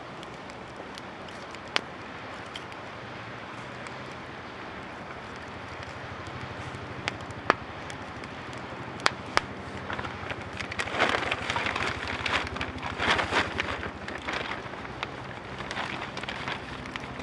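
Wood campfire burning, with a few sharp single pops from the wood; from about ten seconds in, the crackling grows busier and denser.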